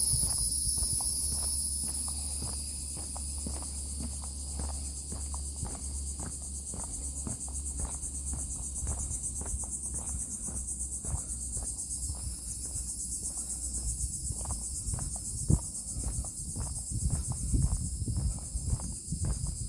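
A steady, high-pitched chorus of insects, with footsteps on a wooden boardwalk at about two steps a second. The steps get louder near the end, with one sharp knock about three-quarters of the way through.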